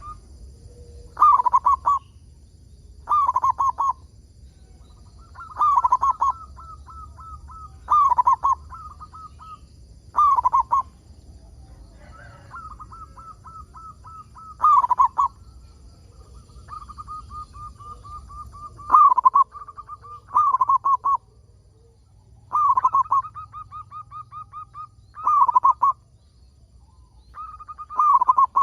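Zebra dove (perkutut) cooing: a loud rolling coo phrase about every two to three seconds, with softer runs of quick repeated notes between them.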